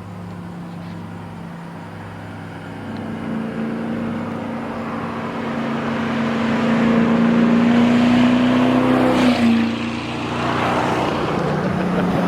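A 4.6-litre two-valve V8 in a Ford Mustang GT, running with the mufflers cut off, under acceleration. Its note climbs steadily for several seconds, drops abruptly about nine seconds in like a gear change, then holds and climbs again.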